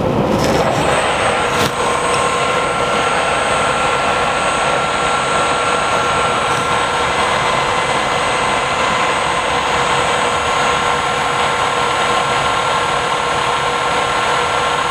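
Knuth SSB 50 F Super column drill press running under its powered quill feed, a steady machine whine with several held tones over an even noise. There are a couple of clicks in the first two seconds.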